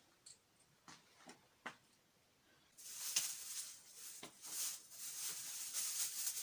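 A few faint knocks, then about three seconds in a sudden loud, irregular rustling and scraping close to the microphone, like things being shifted or handled, which carries on to the end.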